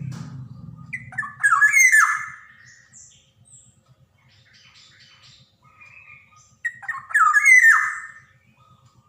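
Black-naped oriole calling twice, about five seconds apart, each time a rapid run of short falling notes. A low pulsing buzz is under the first second or so.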